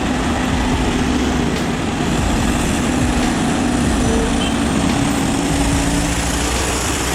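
Truck engine running steadily, a constant drone with a faint hum that drifts a little in pitch.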